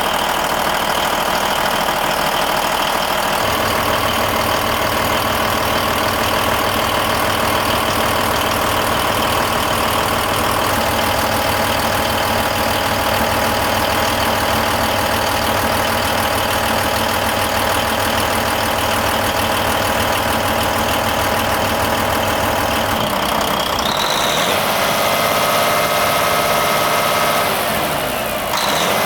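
Volvo D16 inline-six diesel engine of a Volvo VT 880 truck idling steadily. The sound shifts twice: a few seconds in and again near the end, when rising tones come in.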